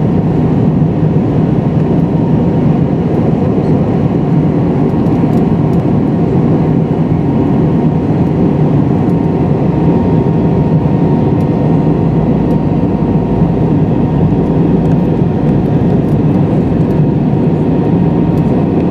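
Steady cabin noise inside a McDonnell Douglas MD-83 airliner in flight: the rush of air and the hum of its tail-mounted Pratt & Whitney JT8D engines, with a faint steady whine.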